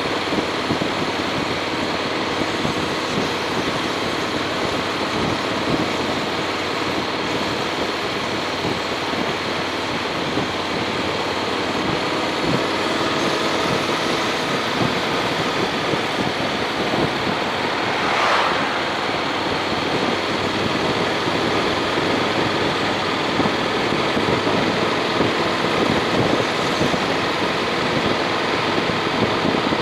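Honda X-ADV's parallel-twin engine running under way, mixed with steady wind and road noise. There is a brief louder swell about eighteen seconds in.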